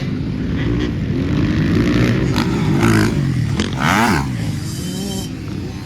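Dirt bike engines running and revving, the pitch rising and falling as throttles open and close, with one engine's pitch dropping sharply about four seconds in.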